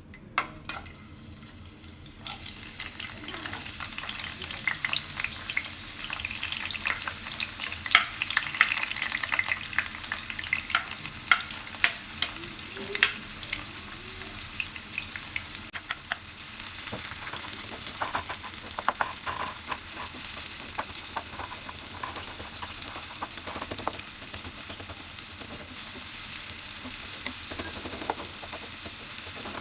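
Three sliced large onions sizzling in hot oil, which starts about two seconds in, as they are tipped into the pan. They are stirred with a spoon, with frequent scraping clicks against the pan.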